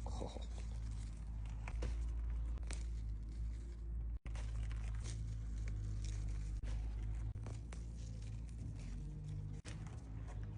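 Radishes being pulled from the soil by hand: leafy tops rustling and roots tearing free, with scattered small crackles over a steady low rumble.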